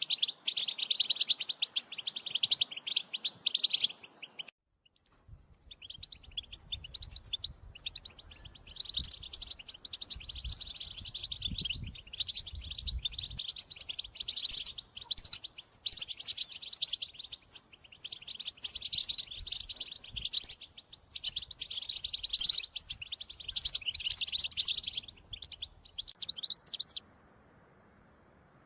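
European goldfinch singing: rapid, tinkling twitters in runs of a few seconds broken by short pauses, with a brief break about five seconds in and the song stopping shortly before the end.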